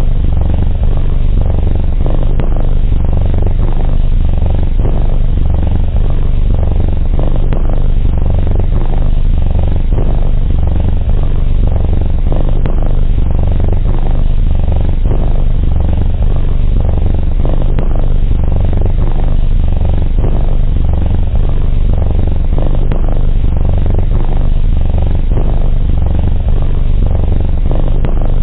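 Domestic cat purring close to the microphone: a steady, loud, low rumble.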